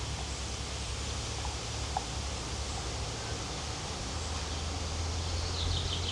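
Steady outdoor background noise with a low hum, and a small bird giving a quick run of short chirps near the end.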